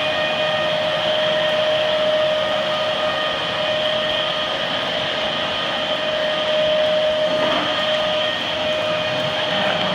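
Hoover vacuum cleaner running steadily: a constant motor whine over a rushing hiss of air.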